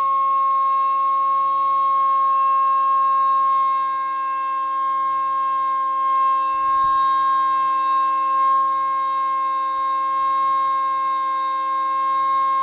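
Stepper motors of a homemade Arduino CNC machine with A4988 drivers, giving a steady high whine at an almost constant pitch as the axes move at a fixed step rate.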